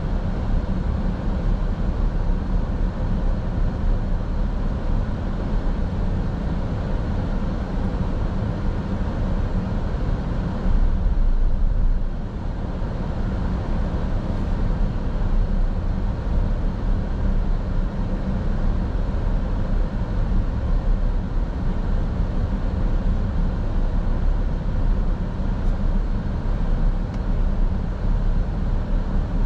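Steady road and engine noise of a moving car, heard from inside the cabin as a constant low rumble; it swells briefly about eleven seconds in, then settles back.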